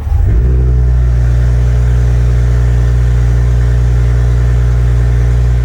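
A car engine running steadily at idle, a loud, deep, even drone that does not change in pitch.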